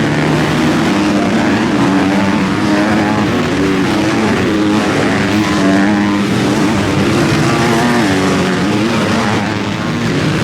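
Several motocross bikes' engines revving on the track, their pitch rising and falling as the riders work the throttles, with several engines heard at once.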